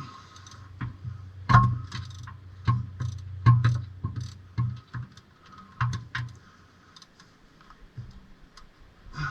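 Irregular metallic clicks and knocks of hand tools and parts being handled during work on a car's drivetrain, the loudest about one and a half seconds in and again near the middle.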